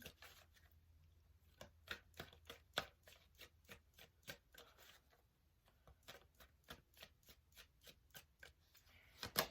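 Tarot deck being shuffled by hand: a run of faint, irregular card clicks, a few each second, with a slightly louder snap near the end.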